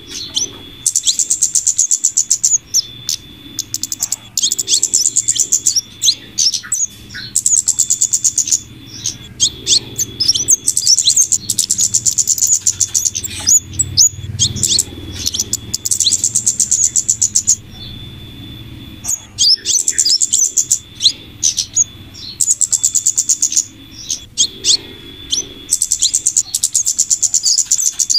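Bird lure recording of flowerpecker (cabe-cabean) calls: rapid, high-pitched chattering ticks in repeated bursts of a second or two, over a faint steady high tone.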